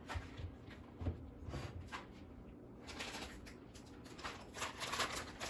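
Faint kitchen handling sounds: a few light knocks and clicks, then denser rustling from about halfway through.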